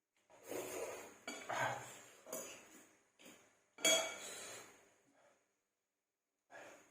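Cutlery scraping and clinking against a dish while stirring and scooping instant fried noodles, in a series of separate strokes, the loudest about four seconds in.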